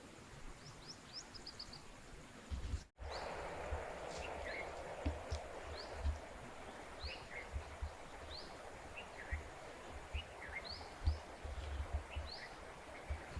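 Small birds chirping outdoors: short, high, quick notes repeated every half second or so. About three seconds in the sound cuts abruptly, and a steady rushing noise comes in under the birds, with irregular low rumbles like wind buffeting the microphone.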